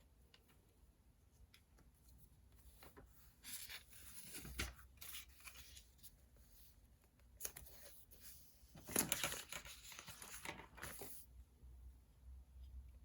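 Paper rustling and crinkling: a short stretch about four seconds in and a longer, louder one from about seven and a half to eleven seconds, as sheets or pages are handled.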